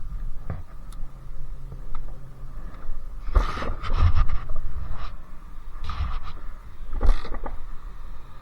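Sherco 50cc two-stroke engine with a KRM expansion exhaust running. It gets louder about three and a half seconds in and again around six to seven seconds in.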